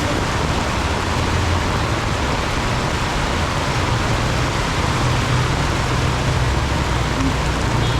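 Heavy rain pouring down in a steady, dense hiss, with the low hum of passing traffic underneath.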